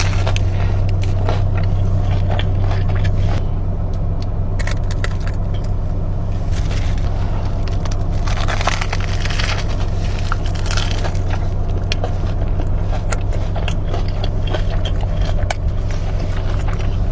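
Close-up eating: many short, irregular crunches and chewing sounds, over a steady low hum.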